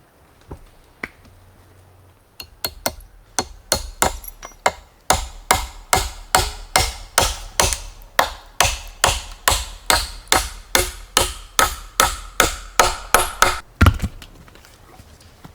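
A run of sharp, evenly spaced strikes, a tool hitting something over and over at about three a second. The strikes begin sparse and uneven a couple of seconds in, settle into a steady beat, and stop shortly before the end.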